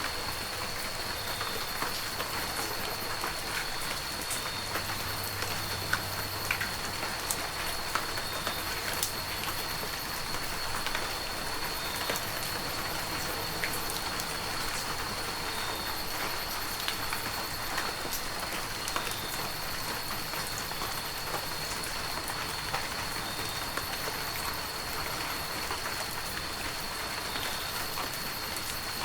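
Heavy rain falling steadily, with scattered sharp drops striking close by and a faint steady high whine running through it.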